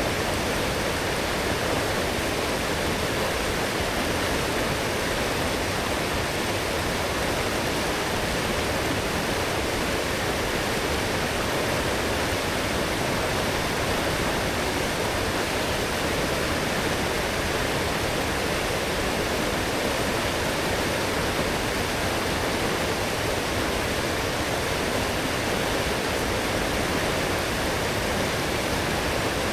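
A strong forest stream, swollen after heavy rain, rushing and splashing steadily over its bed.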